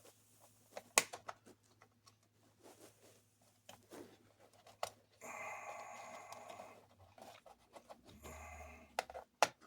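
Plastic toy parts being handled and pressed together: scattered clicks and knocks. A steady whir runs for about two seconds midway and again briefly near the end.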